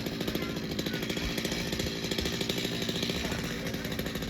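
Two-stroke chainsaw engine running steadily at a fairly constant speed.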